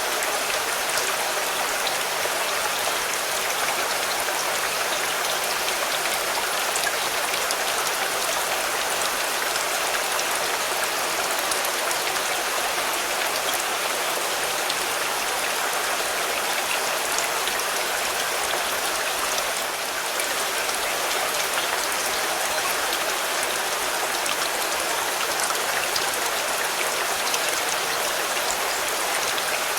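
Rain falling steadily on a car: a dense, even patter of drops that keeps on without letup.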